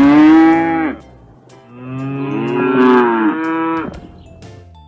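Zebu cattle mooing twice: a long moo fading out about a second in, then a second, longer moo from about two to four seconds in.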